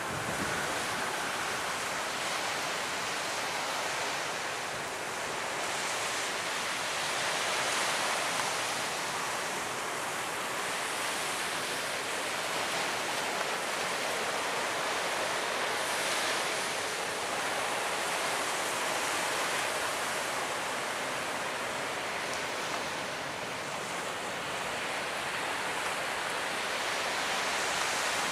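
Surf washing onto a beach: a steady hiss of breaking waves that swells and eases gently every several seconds.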